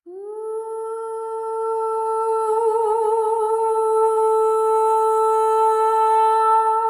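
One long held horn-like note that scoops up into pitch at the start, holds steady and wavers briefly about three seconds in, with a faint high shimmer above it.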